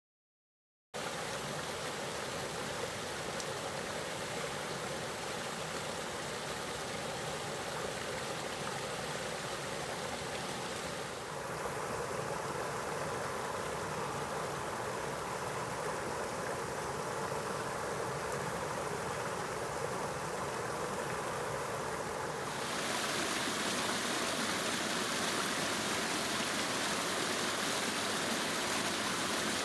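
Small brook waterfalls and rapids rushing steadily, the brook running high after heavy spring rain. The water noise begins about a second in and changes character abruptly twice.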